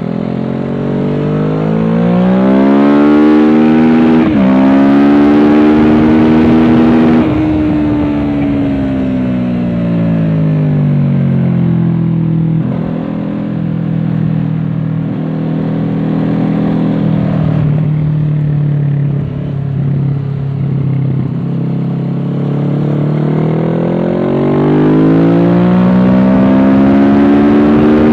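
Kawasaki Z650's parallel-twin engine through a Dominator aftermarket exhaust, heard from on board. The engine revs up with a short dip about four seconds in, where a gear is changed. It then falls away for several seconds as the bike slows, runs at lower revs for a while, and revs up again near the end.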